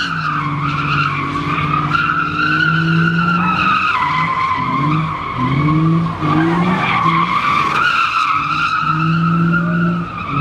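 A car doing a burnout or donuts: tyres squealing continuously while the engine is held at high revs and blipped up again and again.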